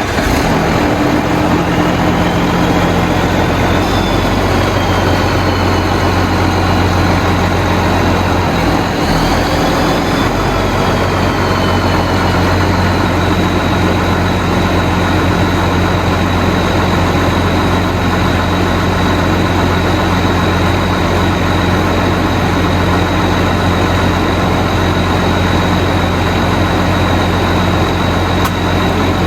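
Farm tractor's turbocharged diesel engine idling steadily just after being started. A thin high whine wavers in pitch for about the first twelve seconds, then holds steady.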